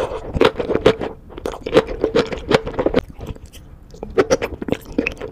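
Close-miked chewing of mushrooms in a spicy red sauce: a quick run of crisp, wet crunches. The crunching eases off about three seconds in, then starts again with a fresh bite near the end.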